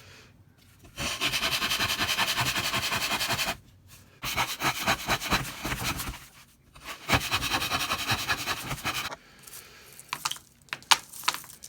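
Fine-toothed razor saw cutting with quick, even back-and-forth strokes in three spells. A few sharp light taps follow near the end.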